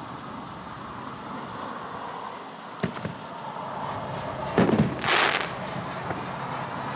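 Fireworks artillery shells, 60-gram canister shells, going off: a sharp crack about three seconds in, then two louder booms close together about four and a half and five seconds in. A steady background of wind runs under them.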